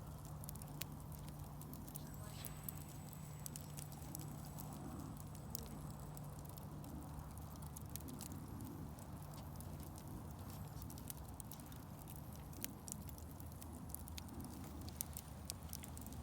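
Fireplace fire crackling, with frequent irregular sharp pops and snaps over a steady low hum.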